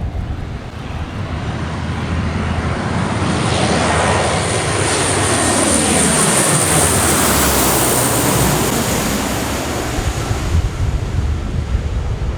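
JASDF C-130H Hercules flying past on arrival, its four Allison T56 turboprop engines running with a high whine. The sound builds over the first few seconds, peaks in the middle and fades toward the end, with falling pitch sweeps as it passes. Low wind rumble on the microphone at the start and near the end.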